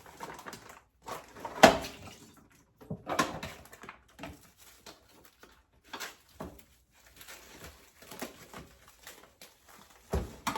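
Kitchen handling noises as packs of ribs are handled: irregular knocks and rustling, the sharpest knock about a second and a half in.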